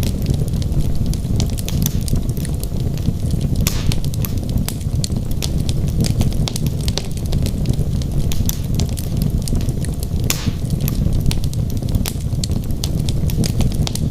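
Wood fire burning in a fireplace: a steady low rumble of flames with many small, sharp crackles and pops from the logs, and a couple of slightly longer pops about four and ten seconds in.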